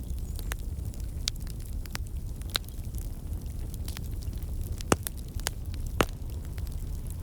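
Wood fire crackling in a fireplace: a steady low rumble with scattered sharp pops and snaps, the loudest two about five and six seconds in.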